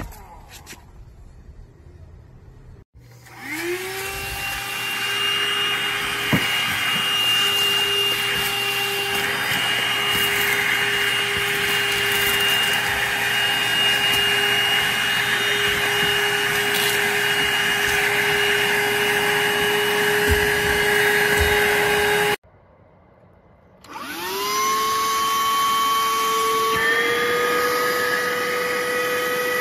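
BLACK+DECKER Dustbuster QuickClean cordless handheld vacuum switched on, its motor whine rising as it spins up and then running steadily with a rushing hiss of air. It cuts off suddenly, is started again and spins up once more, and its pitch steps up slightly a few seconds later.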